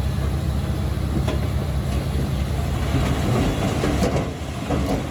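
Diesel engine of a small crawler bulldozer running steadily under load, with its steel tracks clattering and a few sharp metallic knocks.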